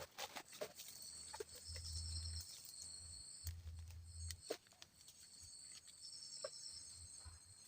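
Forest insects buzzing steadily at a high pitch, with a couple of short pulsing trills. Scattered light clicks and snaps from twigs or handled gear sound over it.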